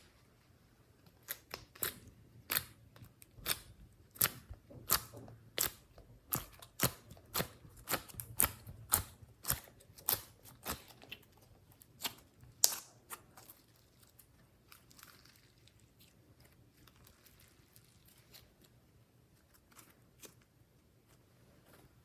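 Slime being worked by hand, making a run of sharp wet clicks and pops, about two a second, that die away to faint squishing about two-thirds of the way through.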